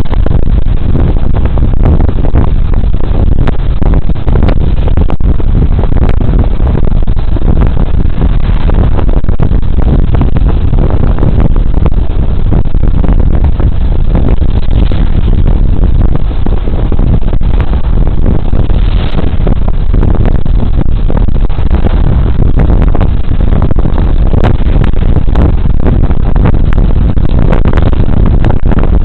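Loud, steady rush of wind and road noise on a body-worn camera's microphone while riding a Suzuki Burgman Street 125 scooter, its single-cylinder engine running underneath.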